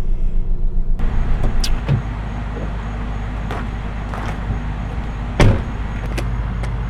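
Car on the move: a steady low road and engine rumble with several light knocks and one sharper thump about five and a half seconds in.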